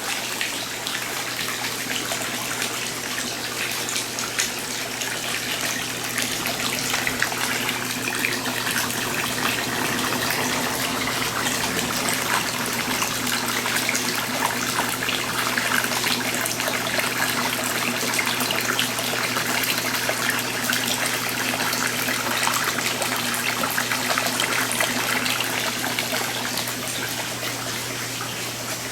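Water splashing and trickling continuously, with many small splashes that grow busier through the middle stretch, over a steady low hum.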